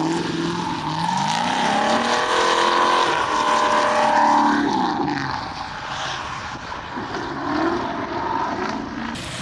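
Drift car engine revving hard, its pitch climbing and dropping again and again with the throttle, loudest through the middle and then fading after about five seconds.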